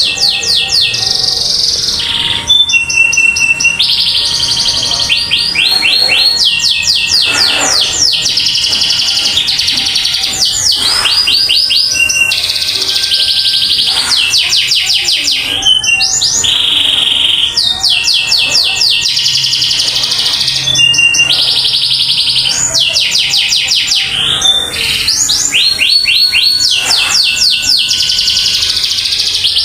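Domestic canary singing loudly and without a break: fast runs of repeated sweeping notes alternating with held, buzzing trills.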